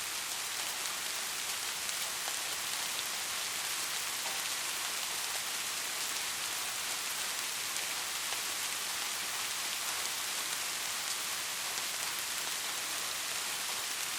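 Steady rain: a dense, even hiss of falling rain with fine ticks of individual drops.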